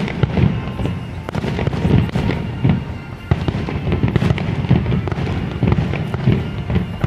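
Aerial fireworks going off in quick succession: many overlapping booms with crackling pops between them, with no break.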